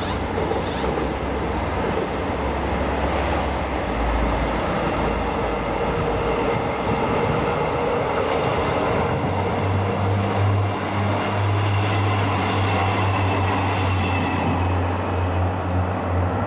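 Train approaching along the track: a steady low hum that grows stronger about two-thirds of the way in, with a faint high whine joining near the end. Wind rumbles on the microphone during the first few seconds.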